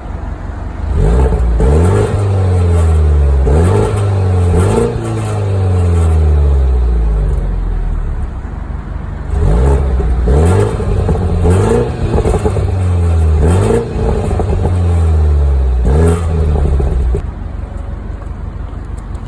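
BMW 330i's turbocharged four-cylinder engine revved through its stock exhaust, with the secondary catalytic converter still fitted: two series of quick throttle blips, each pitch jumping up sharply and then sliding back down to idle.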